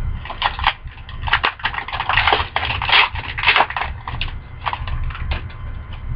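Hockey card pack being opened and handled: a run of irregular crinkles and clicks from the wrapper and the cards, over a low steady hum.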